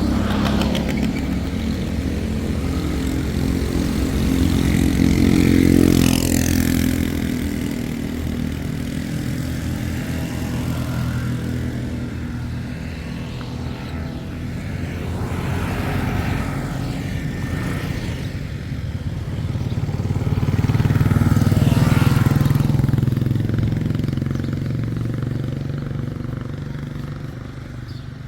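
Motor vehicle engines running close by, swelling twice, loudest about six seconds in and again around twenty-two seconds.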